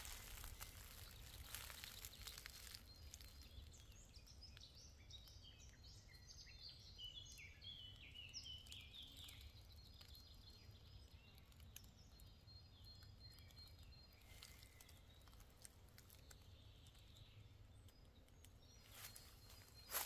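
Faint songbird chirping: a quick run of high chirps for several seconds early on, then a few scattered calls, over a low steady outdoor rumble. Footsteps on the forest floor come in briefly at the start and again near the end.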